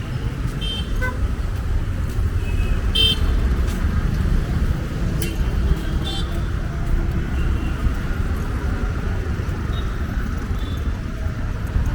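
City street traffic running steadily, with several short car horn toots.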